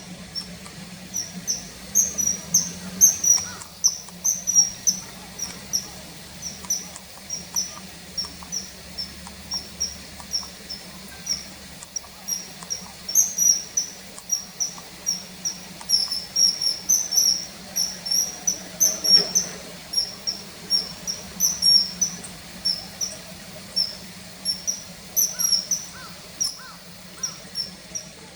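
Common kingfisher calling: a long run of short, high whistled notes, two or three a second.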